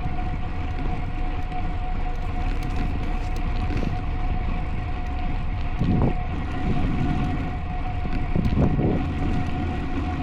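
Wind and road rumble on an on-board camera microphone while riding a road bike, with a steady high hum throughout and brief louder gusts about six seconds in and near the end.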